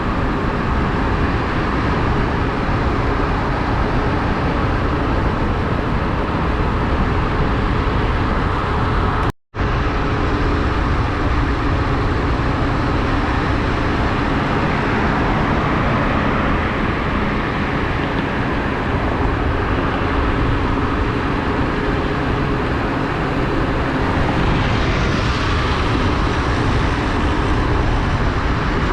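Steady rush of wind and road noise on a motorcycle rider's camera microphone while riding, with a faint engine hum underneath. The sound cuts out completely for a split second about nine seconds in.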